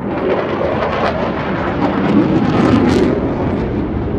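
Jet aircraft flying past, a loud rushing engine noise that swells to its peak about three seconds in and then eases off.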